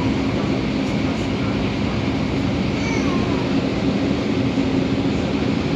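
MTR A-Train electric multiple unit running at speed, heard from inside the car: a steady rumble of wheels on rail under a steady hum. Through it runs the wheel-flat beat that Hong Kong railfans call 拍子, a moderate rhythmic thumping from a flat spot on a wheel.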